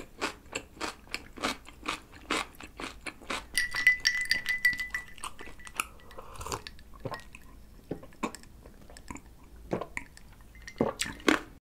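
Close-up crunchy chewing of a pickle slice for the first few seconds. About four seconds in there is a ringing clink of ice against a glass mug, then iced cola being sipped, with a few scattered clicks near the end.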